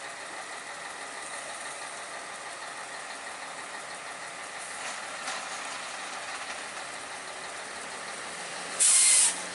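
Heavy truck engine running steadily, with a short, loud burst of air hiss near the end.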